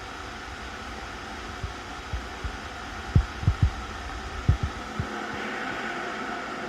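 Glass electric kettle heating water: a steady hiss that swells a little near the end, with a handful of short low thumps in the middle.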